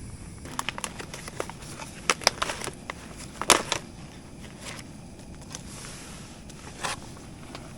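Scattered clicks and knocks of camp cooking gear being handled while water is set to boil, the loudest about three and a half seconds in, over a steady hiss.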